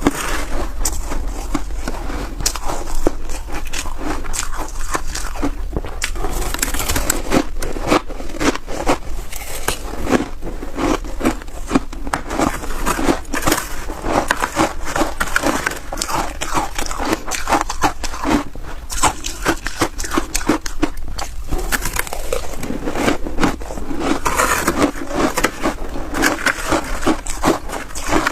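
Someone biting and chewing snow ice: a dense, continuous run of crisp crackling crunches.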